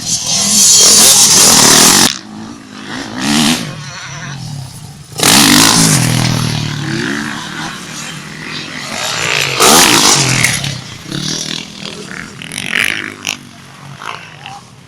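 Motocross dirt bikes racing past with engines revving hard. They are loudest in surges at the start, about five seconds in and about ten seconds in, with the engine pitch rising and falling, then fade near the end.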